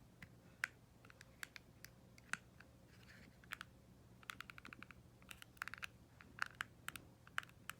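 Faint plastic clicking from a ceiling-fan remote being handled and its cover opened: scattered single clicks, then from about four seconds in several quick runs of clicks. A faint steady low hum underneath.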